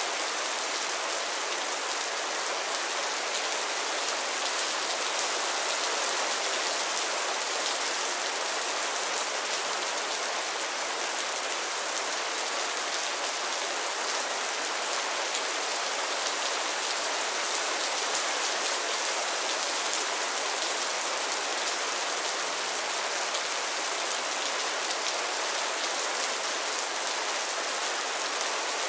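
Mild rain falling steadily on a roof and the ground: an even hiss of drops with a fine patter.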